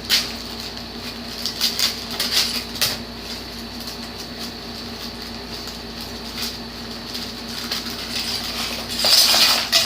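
Small plastic building-brick pieces clinking and their plastic bags crinkling as they are handled and unpacked, in short bursts in the first few seconds and a longer, louder bout near the end. A steady low hum runs underneath.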